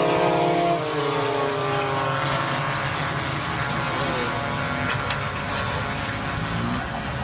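Racing motorcycle engines running on track. One engine's pitch falls over the first couple of seconds as it slows or passes, then settles into a steady mix of engine noise.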